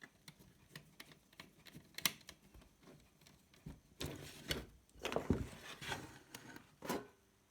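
Hands working with wires and small plastic parts at a bench: scattered light clicks and taps, then a busier stretch of rustling and scraping from about four seconds in, ending with a sharper click near the end.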